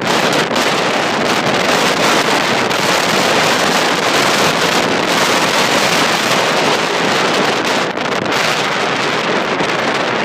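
Strong wind buffeting the microphone: loud, steady wind noise with no break.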